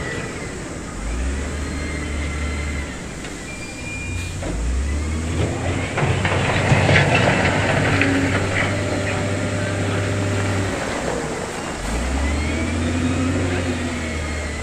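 Heavy diesel construction machinery working, its engines running and revving in stretches. About six to eight seconds in there is a louder, noisier passage with knocks.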